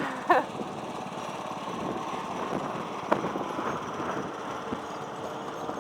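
Steady mechanical running noise, with a brief high-pitched sound just after the start and a sharp click about three seconds in.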